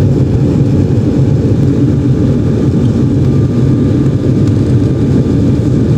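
Steady low roar of a jet airliner's engines and rushing air, heard inside the cabin during the climb after takeoff, with a faint steady whine above it.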